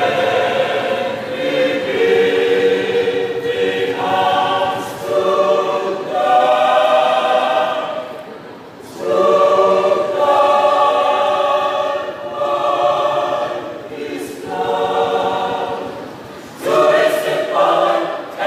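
Mixed church choir singing in parts, holding sustained chords in long phrases, with brief breaths between phrases about eight and sixteen seconds in.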